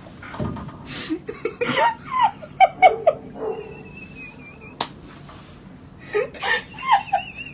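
People laughing in short choppy bursts, twice, with a sharp click between the bursts.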